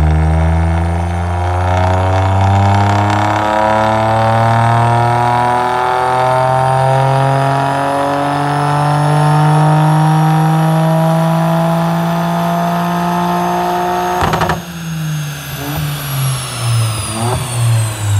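Toyota GR Yaris's 1.6-litre turbocharged three-cylinder engine on a dyno, through a Whifbitz titanium exhaust. It makes one long full-throttle pull, its pitch rising steadily for about fourteen seconds. Then there is a sharp crack as the throttle closes, and the revs fall with several short cracks from the exhaust.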